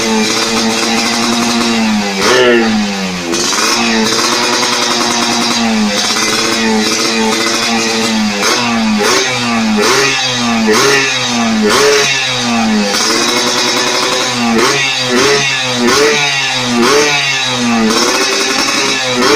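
An engine revving again and again, its pitch climbing and falling in short repeated sweeps that come quicker near the end.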